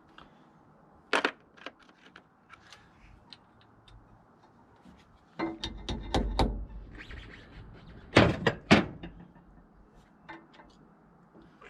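Hand tools knocking and clanking against the excavator's metal as bolts and hydraulic lines are worked on: scattered sharp knocks, a dull thump around six seconds in, and two loud strikes about eight seconds in.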